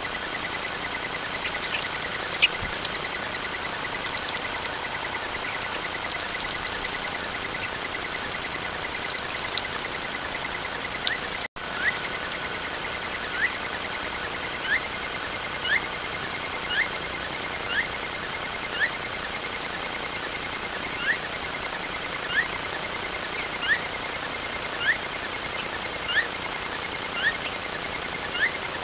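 A small bird calling: a short rising whistle repeated evenly about once a second over a steady hiss, with fainter chirps before it.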